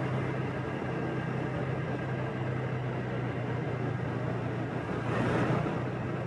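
Motorbike engine running steadily with road and traffic noise from a ride through city streets. About five seconds in, a louder rush swells briefly and fades.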